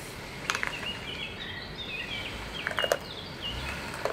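A bird singing a quick run of short, high chirping notes over steady forest background noise, with a few sharp clicks near the start and near the end.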